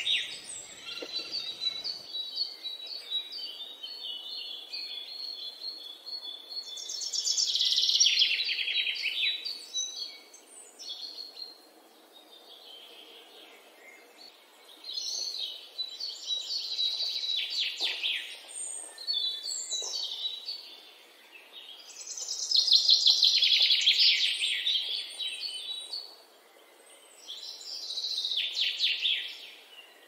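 Birds calling in high-pitched bursts of rapid, chattering notes a second or two long, repeated several times, with softer chirps in between.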